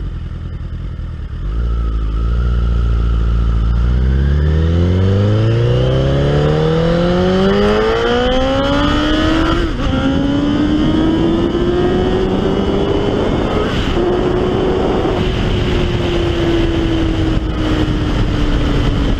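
Honda CBR1000RR's inline-four engine pulling away hard, its pitch climbing steadily for several seconds. A short break in the sound about ten seconds in is likely a gear change. The pitch then rises more slowly, holds steady and eases slightly near the end, over a constant rush of wind and road noise.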